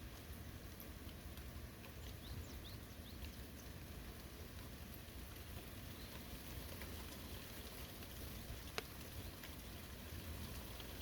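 Steady light rain falling on a forest, with scattered drops ticking close by; one sharper drip comes near the end.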